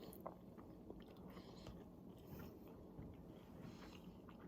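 Faint chewing of food, with soft wet mouth sounds and a few small clicks.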